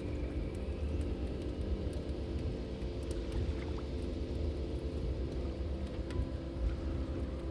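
Log fire burning, with scattered small crackles and pops over a steady low rumble and hum.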